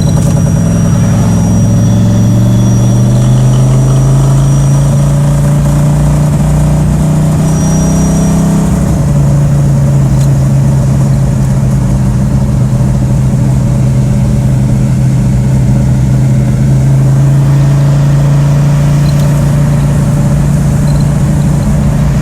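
Ford Foxbody Mustang engine in a BMW E36 pulling on the road: its note climbs for about eight seconds, drops suddenly near nine seconds, then holds steady. A thin high whistle rides over it for the first few seconds and briefly again near eight seconds; the owner puts the whistle down to a throttle-body blade that needs adjusting at idle.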